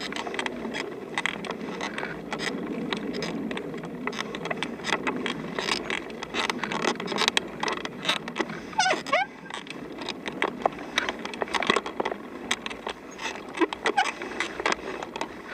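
Bicycle riding along a dirt trail: a steady rolling crunch with irregular rattles and clicks from the bike. There is a brief run of squeaks about nine seconds in.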